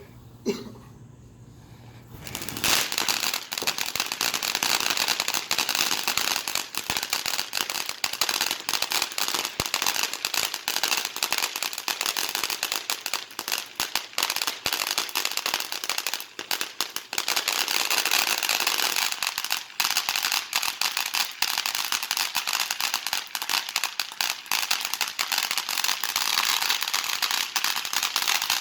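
Consumer fireworks crackling. A single sharp pop comes about half a second in. From about two and a half seconds a dense, continuous stream of small sharp pops and crackles takes over.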